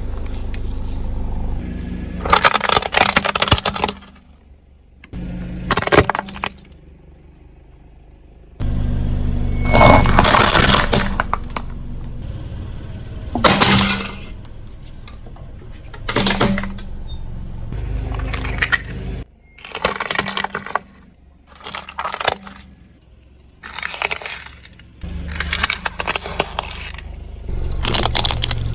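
Car tyre rolling over and crushing objects, giving a string of loud crunching and cracking bursts, with a car engine running low between them. Abrupt changes in level mark a run of separate short crushes.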